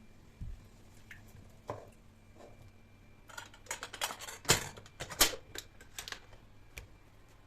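Scattered light clicks and knocks of household items being handled and set down, with two louder knocks near the middle.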